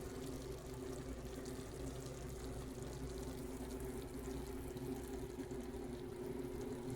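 A steady hum holding two low tones, with a faint hiss beneath, unchanging throughout.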